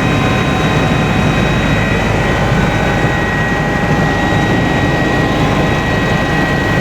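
Kawasaki BK 117 B-2 twin-turboshaft helicopter in flight, heard from inside the cabin: a steady loud roar with several high, steady whines over a low rumble.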